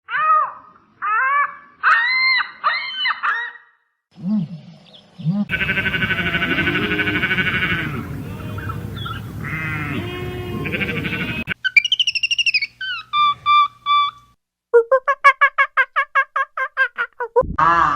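A string of different animal calls, one after another: short rising-and-falling squeaky calls, a couple of low grunts, a long buzzy brassy call lasting about six seconds, then a fast chatter of about six pulses a second near the end.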